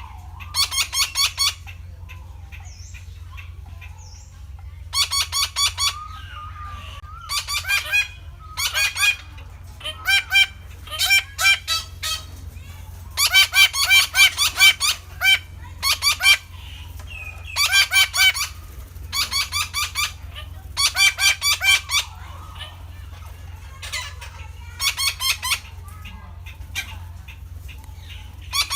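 Red-breasted parakeets calling in bursts of rapidly repeated notes, about a dozen bursts with short pauses between them, over a steady low hum.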